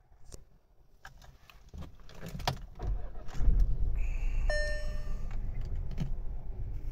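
A few light clicks, then the SEAT Ibiza's 1.0 TSI three-cylinder petrol engine starts about three seconds in and settles into a steady low idle. A short dashboard warning chime sounds a little over a second after it catches.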